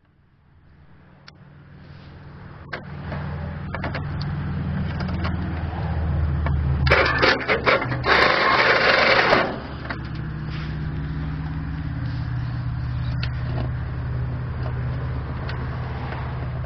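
Starter motor cranking the Murray tractor's engine, which won't start, with scattered clicks. About seven seconds in there is a loud hissing burst lasting a couple of seconds, then the cranking carries on steadily.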